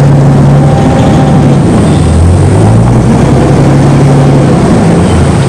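Engine of a World War II amphibious DUKW ('Army Duck') running steadily as a loud low drone heard from aboard, its pitch drifting slightly up and down as the vehicle moves.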